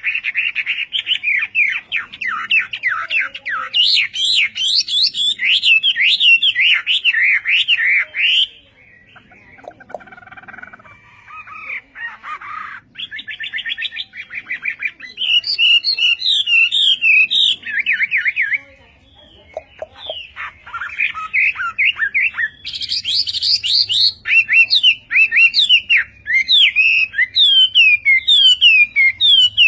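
Hwamei singing long, loud runs of rapid, varied whistles and trills, with two short quieter breaks.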